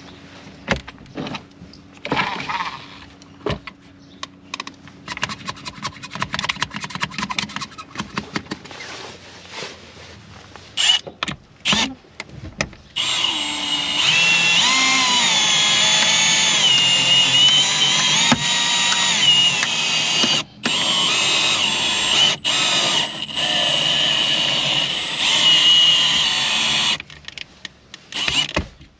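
Handling clicks and knocks, then a power tool running for a long stretch from about halfway in until near the end, its pitch rising and falling as the load changes, with brief dropouts.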